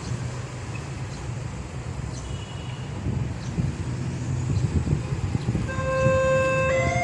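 A low rumble of traffic, then near the end a railway level-crossing warning alarm starts up: an electronic two-tone signal alternating between a lower and a higher tone about once a second. It warns that a train is approaching.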